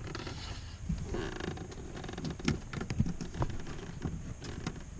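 Tesa tape being unrolled and wrapped around car wiring, giving an irregular run of crackles and small clicks.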